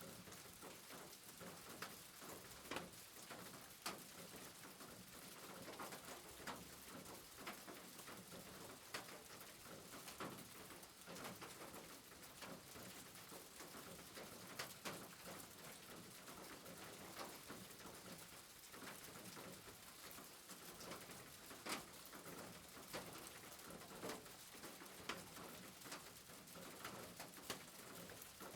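Faint rain: a steady hiss with irregular drops ticking and pattering.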